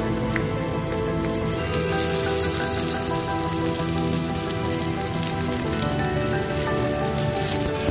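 Kotlet patties frying in shallow oil in a nonstick pan: a steady hiss of sizzling with small crackles. Instrumental background music plays along with it.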